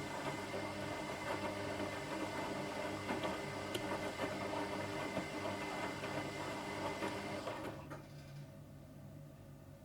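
Washing machine running with a steady mechanical whir and hum. About eight seconds in the motor noise drops off sharply, leaving a quieter low hum.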